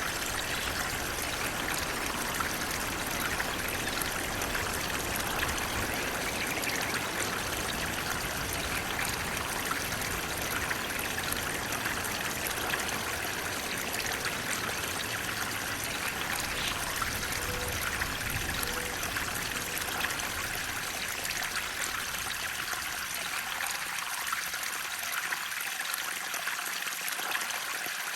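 Water flowing steadily over rocks, a continuous splashing trickle of a small stream or cascade.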